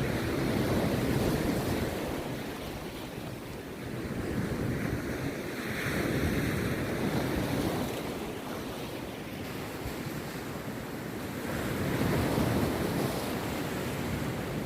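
Rough sea surf breaking and washing on the beach. It comes in three surges about five to six seconds apart.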